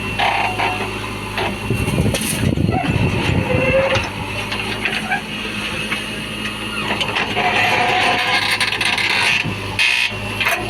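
Heavy diesel engine of a JCB 3DX backhoe loader running steadily at work, with a louder rumbling, clattering stretch about two seconds in.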